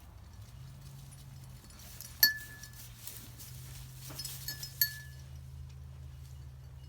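A small bell worn by a sheep clinks twice, about two and a half seconds apart, each strike ringing briefly. Soft rustling comes between the strikes.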